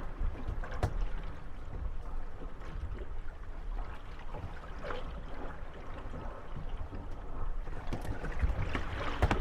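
Moored gondolas rocking on choppy water: waves lapping against the hulls, with occasional wooden knocks and creaks as the boats bump together, the knocks coming thicker near the end.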